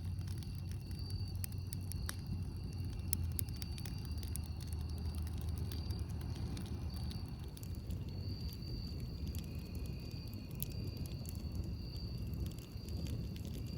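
Campfire crackling with frequent small sharp pops and snaps, over a steady low hum. A thin, high, steady note comes and goes in the background.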